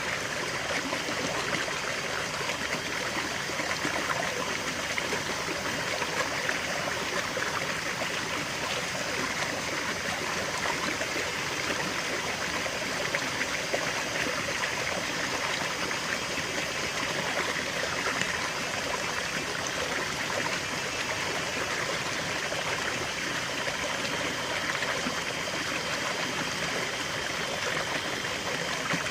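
Small stream of water running and trickling steadily over stones, a continuous babbling without pauses.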